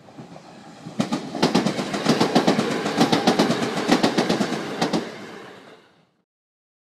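Train wheels clicking over rail joints in a quick, uneven clickety-clack, swelling about a second in and fading out near the end as the train passes.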